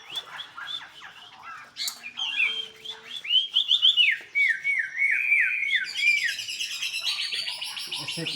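A wambi songbird singing vigorously: a run of repeated down-slurred whistles, about four a second, through the middle, then a fast, dense twittering chatter near the end.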